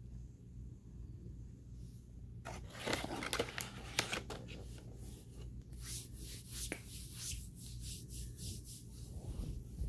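Paper box of Argo laundry starch rustled and crinkled for about two seconds, followed by a run of crisp crunches as chunks of the starch are chewed.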